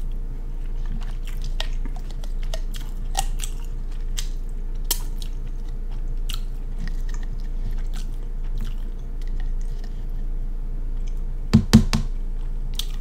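Close-miked eating: chewing with scattered small clicks and cracks of crab shell being handled and broken. About eleven and a half seconds in come three or four loud knocks, over a steady low hum.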